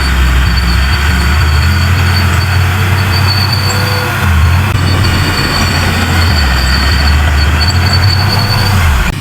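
Heavy diesel earthmoving machinery running steadily under load, with a deep engine note that shifts a little now and then and a thin high whine that comes and goes.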